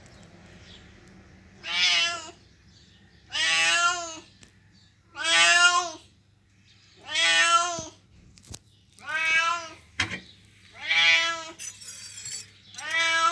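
Domestic cat meowing about seven times at an even pace, one call every two seconds or so, each call short and drawn out with a bend in pitch.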